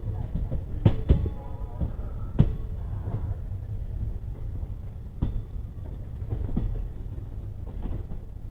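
Railway train running: a steady low rumble of wheels on track with irregular sharp clacks as the wheels pass over rail joints.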